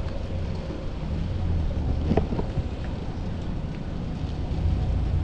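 Steady wind rumble on a chest-mounted action camera while cycling, mixed with tyre and city traffic noise, with a brief sharper noise about two seconds in.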